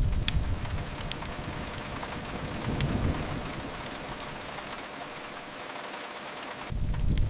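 Steady rain hiss with scattered sharp crackles from a wood fire. A deep low rumble fades out in the first second or so and swells back in near the end.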